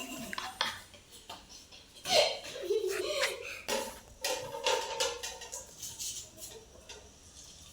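Kitchen clatter: utensils, dishes and pans knocking and clinking in a string of sharp clicks, the loudest about two seconds in, with a few brief wordless vocal sounds between.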